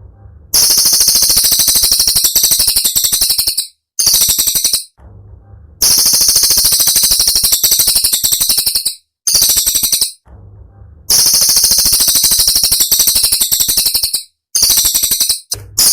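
Cililin song bird giving bursts of very rapid, sharp, high-pitched chattering notes, the fast 'tembakan' delivery that bird keepers use as training song. The bursts run from under a second to about three seconds, with brief pauses between them.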